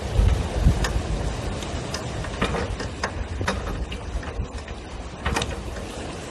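Wind rumbling on the microphone aboard a sailboat under way, gusting hardest in the first second, with about five irregular sharp clicks and knocks from gear on board.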